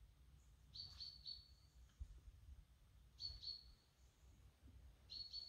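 Faint, high bird calls: short chirps in twos and threes, repeated about every two seconds, over a faint low rumble.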